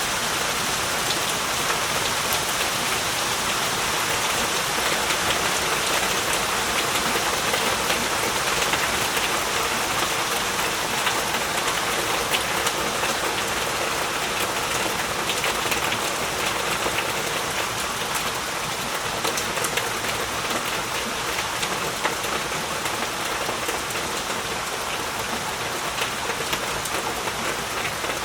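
Heavy rain falling steadily, a dense even hiss flecked with the ticks of individual drops.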